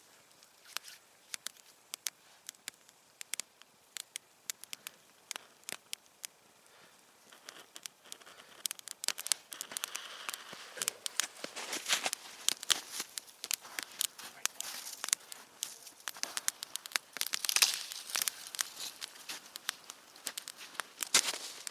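Campfire of damp firewood crackling and popping: sparse faint snaps at first, growing into denser, louder crackling about eight seconds in as the flames take hold.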